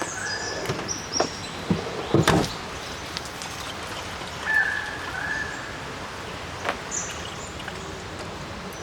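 Short bird chirps and whistles over steady outdoor background noise, with a few sharp knocks, the loudest about two seconds in.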